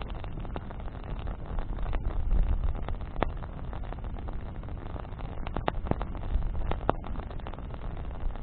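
Wood campfire burning with a steady low rumble and wind buffeting the microphone, broken by scattered sharp crackles and pops from the burning branches, several of them close together a little past the middle.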